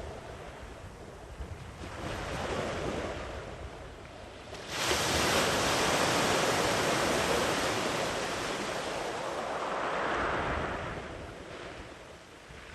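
Ocean waves breaking: a wave crashes suddenly about five seconds in and washes on for a few seconds, a smaller surge follows near ten seconds, and the wash fades near the end.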